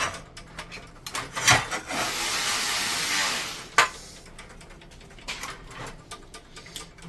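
Metal clinks and knocks from handling plumbing parts and tools, with two sharper knocks and a hiss lasting about a second and a half between them.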